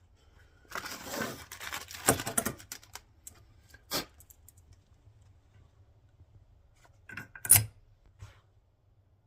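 Metal parts and tools being handled during a differential rebuild: a burst of clinking, rattling clatter, then a few separate sharp metallic clicks or knocks, the loudest near the end.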